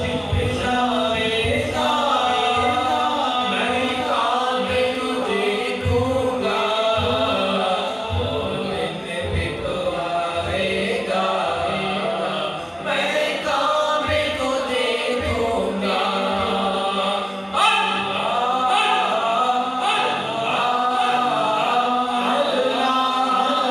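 Male voice singing an Urdu naat with layered, echoing vocal backing and a steady hummed drone, without instruments; the melody runs on without a break.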